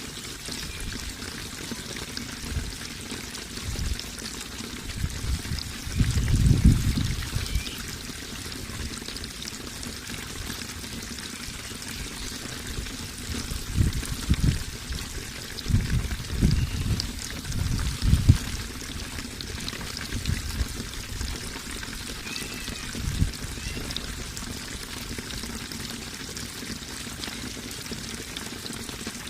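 Flowing water trickling and pouring steadily, with a few louder low rumbling surges about six seconds in and again between fourteen and eighteen seconds in.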